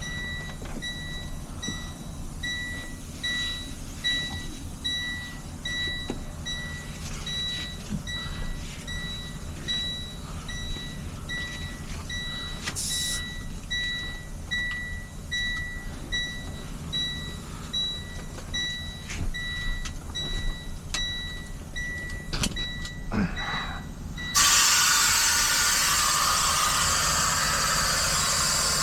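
Truck engine idling with an electronic warning beeper chirping steadily, a little faster than once a second. About 24 seconds in, a loud, steady hiss of air starts suddenly and runs on.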